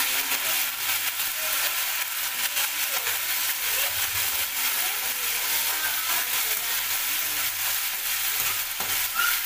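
Chopped vegetables sizzling in hot oil in a steel kadai, with a metal spatula stirring and scraping against the pan throughout.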